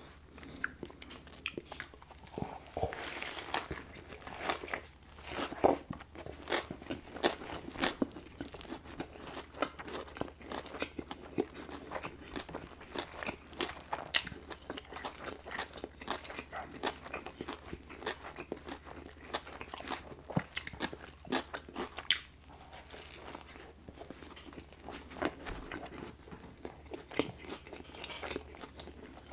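Close-miked biting and chewing of a Popeyes fried chicken sandwich: the crisp fried breading crunches sharply under the teeth, mixed with wet chewing, in a dense, irregular run of crunches with the loudest at the bites.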